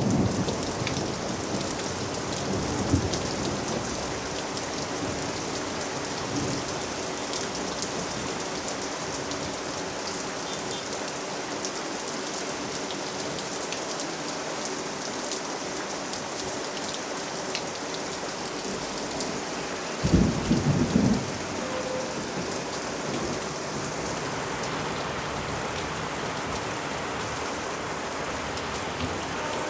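Heavy rain falling steadily, a dense even hiss of rain on surfaces. About two-thirds of the way through comes a brief, loud, low burst of thunder.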